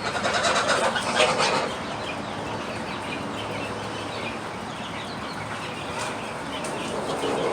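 Chickens clucking and chattering, busiest and loudest for the first second and a half, then softer, scattered calls.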